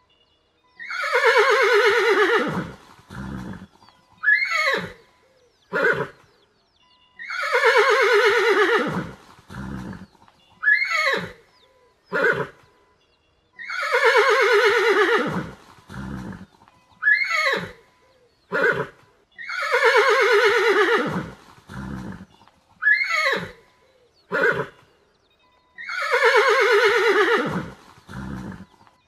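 Horse whinnying: a long quavering call that falls in pitch, followed by a few short calls. The same recording repeats five times, about every six seconds.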